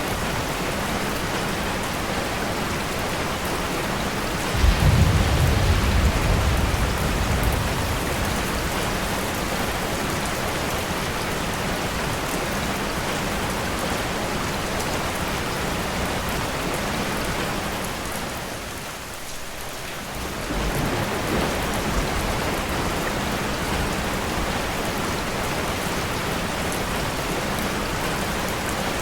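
Steady rain falling. About five seconds in, a low rumble of thunder comes in suddenly and fades over about three seconds. The rain briefly drops in level for a couple of seconds past the middle.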